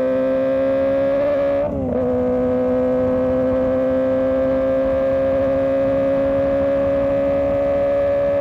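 Kawasaki ZX25R's 250 cc inline-four engine running at high revs with a steady, slowly rising note. The note breaks briefly and drops about two seconds in, then keeps climbing.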